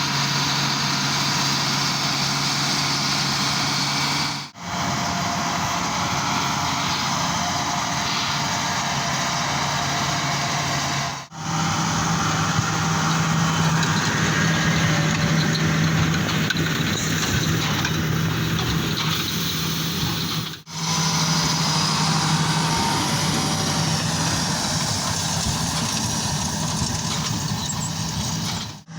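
John Deere 8345R tractor's six-cylinder diesel running steadily while it pulls a working Krone Big Pack large square baler, with mechanical clatter over the engine hum. The sound drops out briefly three times.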